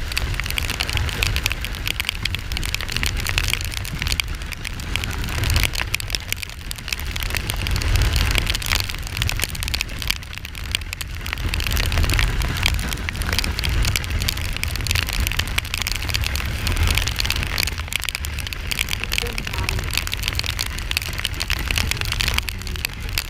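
Wind rumble and rushing noise on the microphone of a moving Kawasaki Ninja 400 ridden in rain, with a steady crackling hiss of rain and tyre spray.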